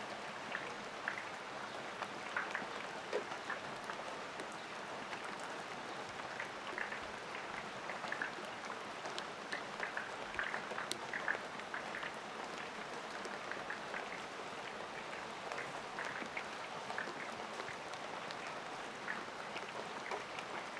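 Steady rain falling, a continuous patter of drops with scattered brief louder drips.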